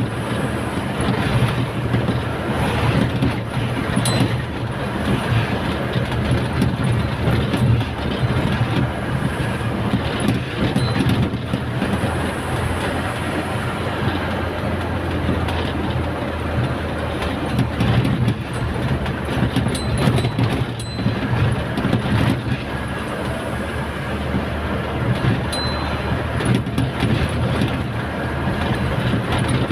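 Truck driving at speed: steady engine and road noise with frequent small clicks and rattles.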